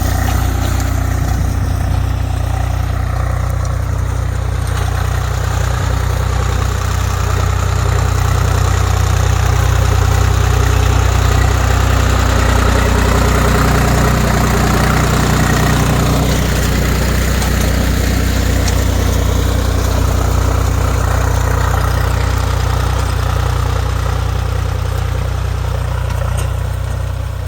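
Swaraj 735 FE tractor's three-cylinder diesel engine running steadily, a little louder through the middle.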